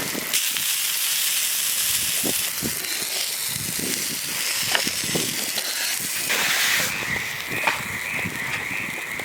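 Food sizzling over a campfire: a steady hiss with scattered crackles and pops. A wavering high tone joins about two-thirds of the way through.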